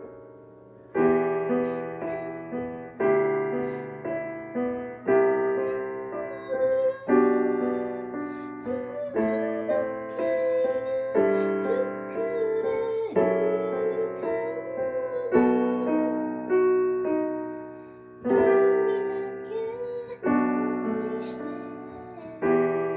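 Piano or electric keyboard playing a slow, gentle ballad accompaniment, a new chord struck every one to two seconds and left to ring. A soft voice follows the melody for a few seconds in the middle.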